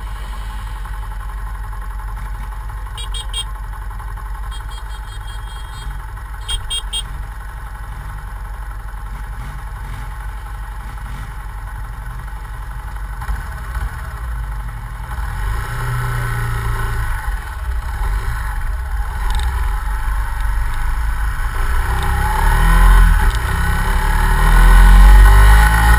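Yamaha Fazer 150 Blueflex's single-cylinder engine running steadily at idle, then getting louder from about halfway through as it is revved, the pitch rising and falling, loudest near the end.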